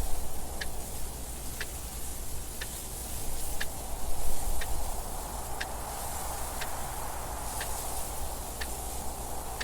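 A clock ticking evenly, about once a second, over steady wind noise that swells and eases.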